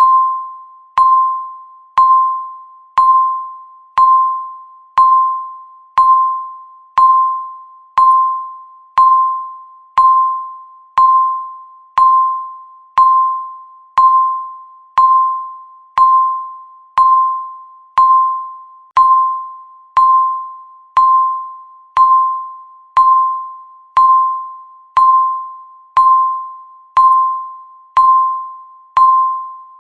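Countdown timer's tick sound: a short, bell-like pitched tick that rings and fades quickly, repeating evenly once every second.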